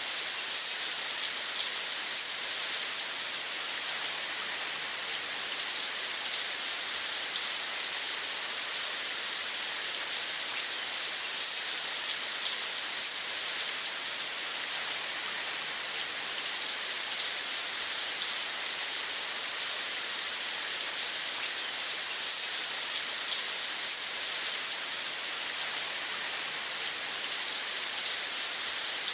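Steady rain falling, an even hiss with fine drop patter that does not change.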